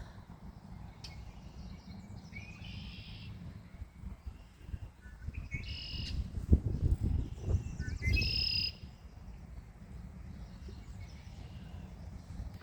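A songbird singing three times, each song a short rising note followed by a buzzy trill lasting about a second, over a low rumble of wind and handling noise.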